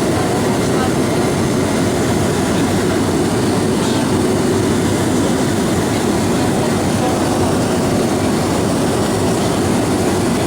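Steady cabin noise inside an Avro RJ-85 airliner: an even rush of engine and airflow noise from its four turbofans, heavy in the low-middle range.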